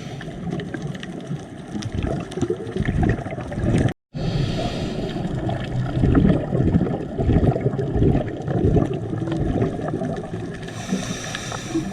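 Underwater sea ambience picked up by a submerged camera: a steady low rumbling water noise with scattered faint clicks. It drops out to silence for a moment about four seconds in, and a brief hiss comes near the end.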